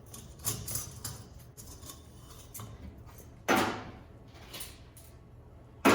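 Metal parts and hose clamps being handled and set down: scattered light clicks and knocks, with one loud clank and rattle about three and a half seconds in and another sharp knock at the end, over a steady low hum.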